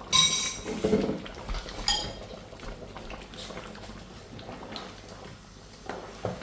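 Metal cookware clanking: a loud ringing clank just after the start and a second one about two seconds in, from a spoon or lid striking a cooking pot. After that come fainter clicks of the pot being handled.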